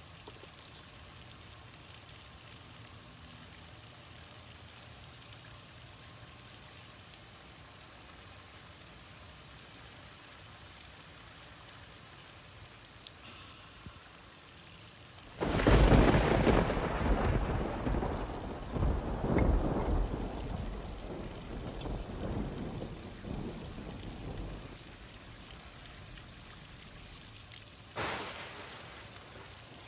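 Steady rain falling, then about halfway through a loud, sudden clap of thunder that rumbles and swells for several seconds before fading back to the rain. A shorter crack of thunder comes near the end.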